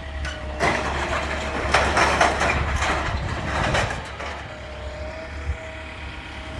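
Heavy demolition machinery's engine running with a steady low rumble. Loud crashing and clattering of demolition rubble runs from about half a second in to about four seconds, then dies down to the engine alone.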